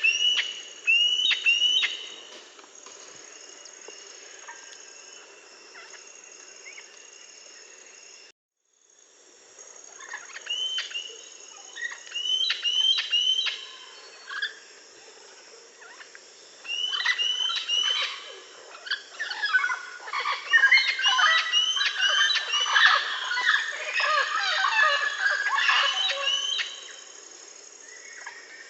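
A flock of parrots chattering with many short, high chirps and squawks that come in bursts, thickest in the second half. The sound drops out completely for a moment about eight seconds in.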